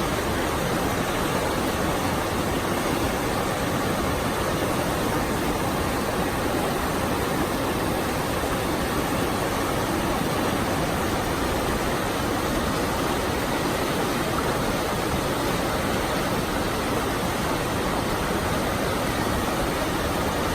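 Steady rushing of the Krka River's waterfalls and cascades, a loud, unbroken hiss of falling water.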